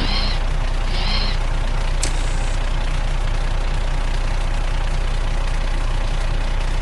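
Truck engine idling steadily, with two short higher-pitched sounds in the first second or so and a sharp click about two seconds in.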